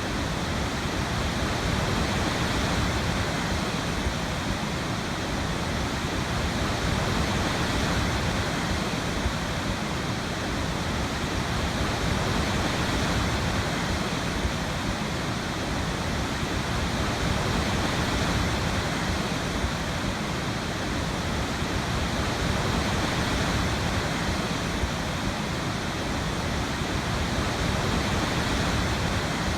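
Waterfall: water pouring and splashing in a steady, dense rush, its loudness swelling and easing slightly every few seconds.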